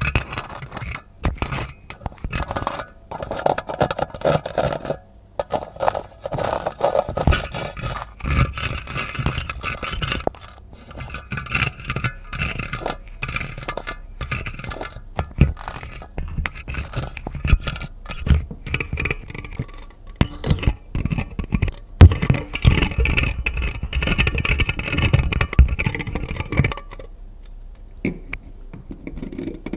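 Close-miked ASMR scratching and scraping of objects, a dense irregular texture full of quick clicks and taps, which dies down near the end.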